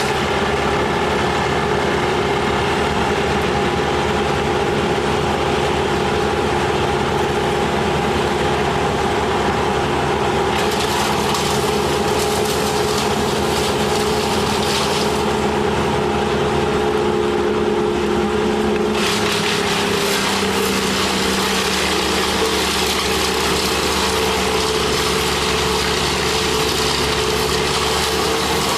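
An engine running steadily at a constant speed. A brighter hiss joins about ten seconds in, drops away a few seconds later, and returns for the last third.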